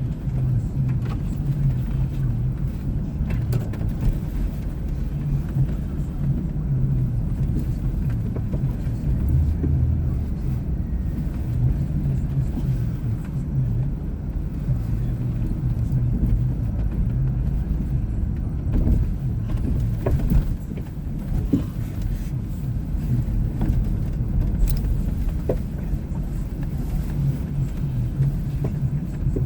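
A vehicle's engine running steadily while driving, a continuous low rumble with a few light clicks and knocks in the second half.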